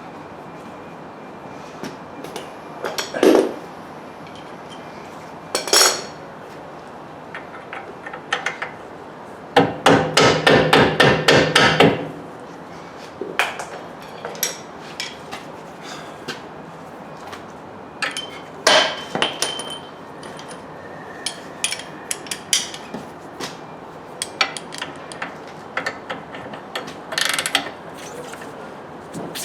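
Metal tools at work on a car's front suspension: scattered clanks and knocks, with a run of rapid, evenly repeated strikes lasting about two and a half seconds, around ten seconds in.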